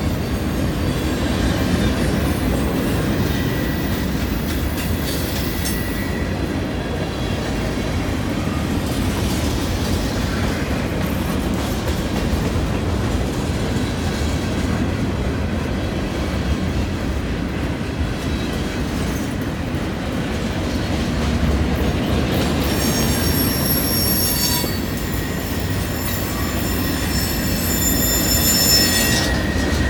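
Long CN freight train rolling through a curve: a steady rumble of steel wheels on rail, with high-pitched flange squeal from the wheels on the curve, strongest in the last several seconds.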